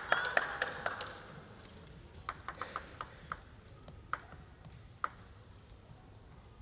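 Crowd clapping in rhythm dies away in the first second. Then a celluloid-type table tennis ball clicks in a quick run of about five light bounces, followed by two more single clicks.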